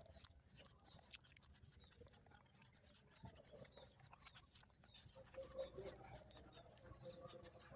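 Nursing puppies suckling at their mother: faint, irregular wet clicks and smacking sounds.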